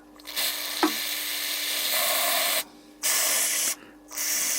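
Pressurised spray hissing in three bursts, one long one of about two and a half seconds and then two short ones, used to clean out an old oil-wetted wire-mesh air filter.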